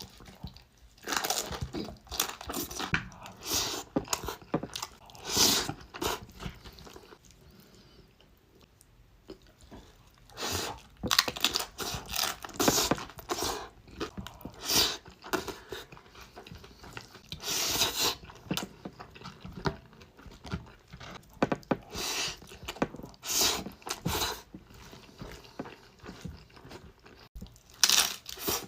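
Close-miked eating: crunching of tortilla chips (Tostitos) and chewing of a Chipotle bowl, in irregular bursts of bites and chews, with a quieter pause about eight seconds in.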